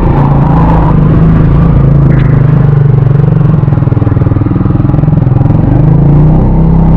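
Motorcycle engine running at a steady, unchanging pitch while riding up a hill road.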